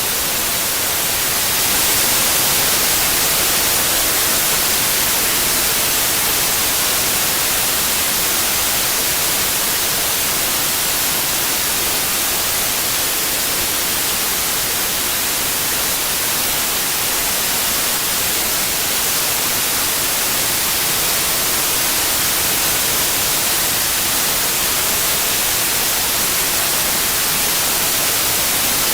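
Steady white noise: an even, continuous hiss, strongest in the high frequencies, rising slightly in level about two seconds in.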